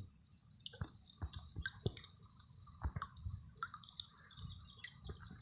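Scattered small wet squelches and clicks of hands and a fish working in soft mud, under a steady high-pitched buzz.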